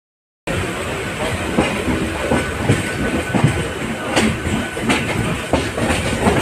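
Electric suburban local train running along the track, heard from its open doorway: a steady rumble with irregular clacks and knocks as the wheels pass over rail joints and points. It starts after a brief half-second of silence.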